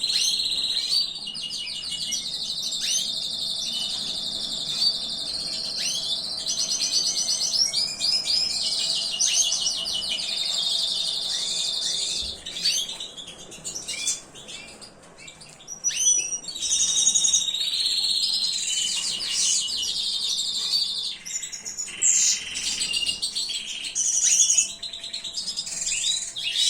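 Small cage songbirds singing almost without a break: rapid high trills and chirps, with a short lull about halfway through.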